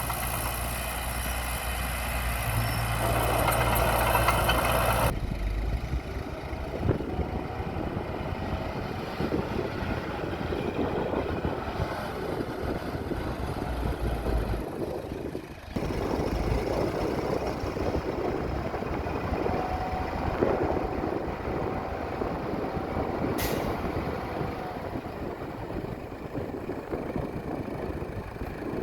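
Heavy diesel earthmoving machinery running steadily, its sound changing abruptly twice. A short sharp hiss comes about two-thirds of the way through.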